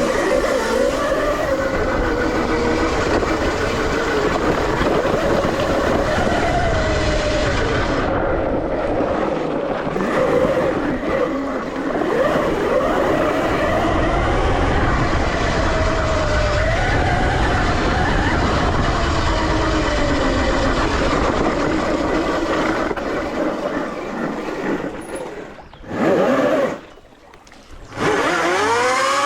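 Electric dirt bike running, its motor whine rising and falling in pitch with speed over a low rumble of wind and tyre noise. The sound drops away sharply near the end and then comes back.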